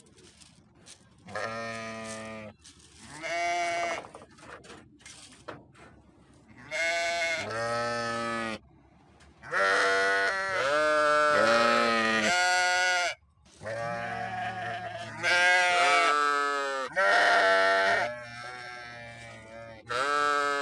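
Sheep bleating: a run of about ten quavering bleats, some long and some short, from more than one animal, a few of them overlapping.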